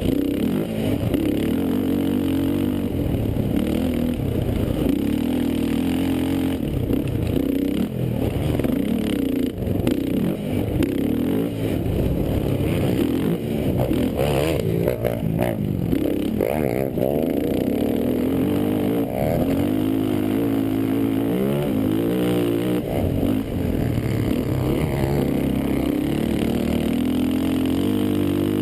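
Quad (ATV) engines running hard, the pitch rising and falling again and again as they rev and shift.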